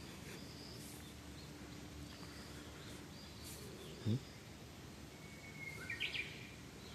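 Outdoor background hiss with faint bird calls. A short, loud low sound that sweeps in pitch comes about four seconds in, and a quick cluster of high chirps follows about two seconds later.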